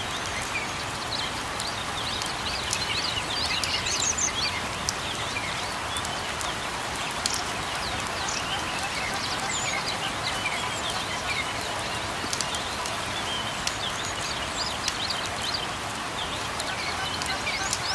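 Steady light rain with many small birds chirping and singing over it, short quick chirps all the way through, and now and then the sharp tick of a drop.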